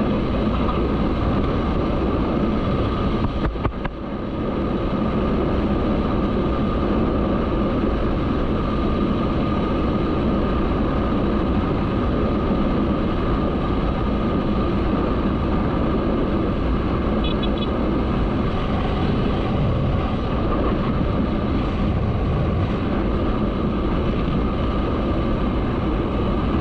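Motorcycle running steadily while being ridden, with wind on the microphone, and a brief drop in loudness about four seconds in.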